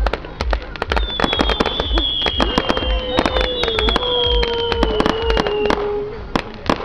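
Fireworks going off: a dense run of crackling pops over low thuds about twice a second, with a whistling tone that comes in about a second in and falls slowly in pitch until it stops near six seconds.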